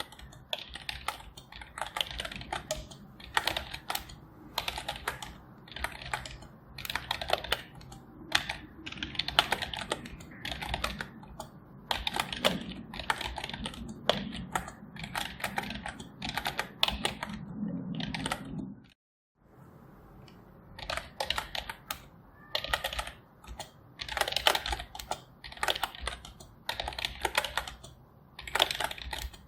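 Typing on a computer keyboard: clusters of rapid keystroke clicks in bursts, with short pauses between them. About nineteen seconds in, the sound cuts out completely for about half a second, then the typing resumes.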